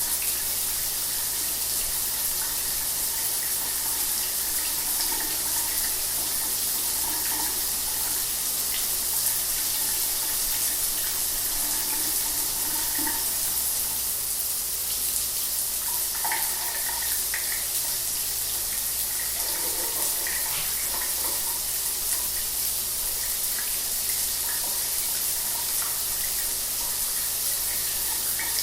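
Shower water running steadily, a constant hiss of spray with small irregular splashes.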